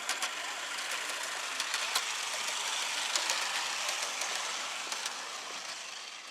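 Gauge 1 model train running past on its outdoor track: a rushing wheel-on-rail noise that swells and fades away near the end, with many sharp clicks through it.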